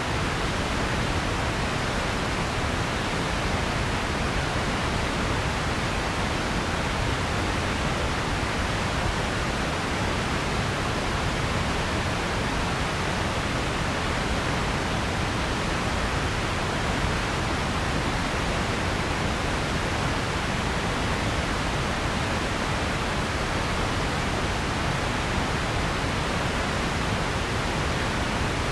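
Steady synthetic noise, a continuous even hiss of the pink-noise kind, unchanging in level and colour.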